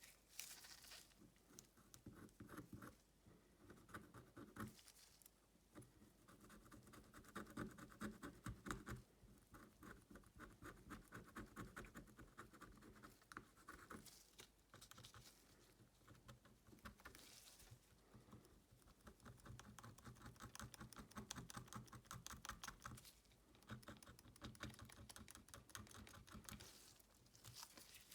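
Faint scratching and tapping of small hand tools working on a Xiaomi Redmi Note 9S phone, many fine clicks in quick succession, during a back-cover replacement.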